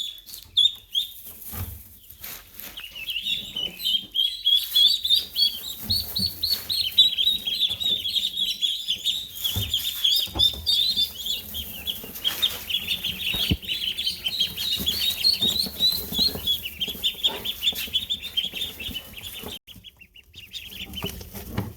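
A brood of young ducklings peeping in a brooder: many short, high peeps overlapping in a dense, continuous chorus that eases off briefly near the end.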